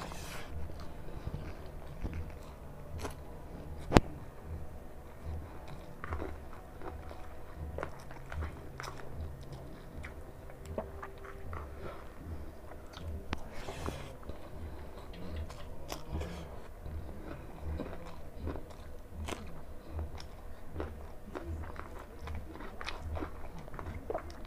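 A person chewing rice and chicken eaten by hand, with steady mouth sounds and scattered small clicks and crunches. One sharp click about four seconds in is the loudest sound.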